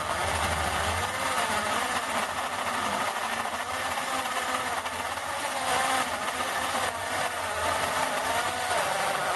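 Electric drill with a worn, dying gearbox running under load as a lubricated core drill bit cuts through aluminium sheet. The whine wavers up and down with the feed pressure over a loud grinding noise.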